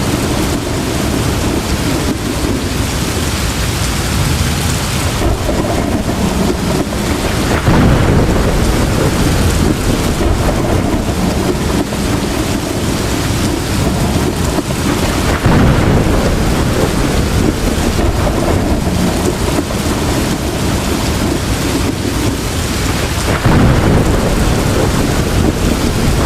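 Heavy rain pouring steadily, with rolls of thunder swelling up three times, about a third of the way in, near the middle and near the end.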